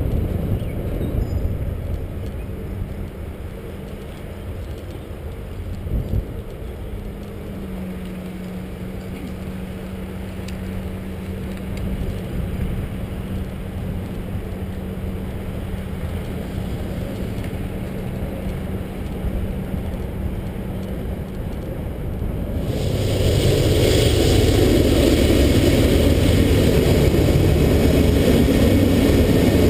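Steady rolling and wind noise from a moving bicycle ride, picked up by a camera riding along, with a faint steady hum for a while. About two-thirds of the way through, the noise jumps louder and stays loud.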